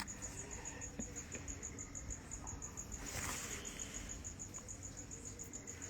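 A faint cricket chirping in a steady, fast pulsed trill of about nine pulses a second on one high tone.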